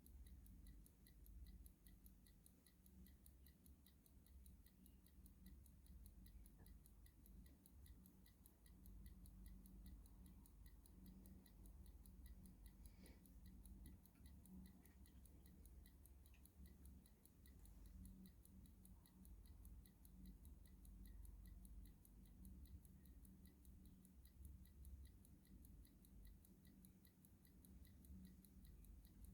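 Clock ticking faintly with a steady, even beat over a low background rumble.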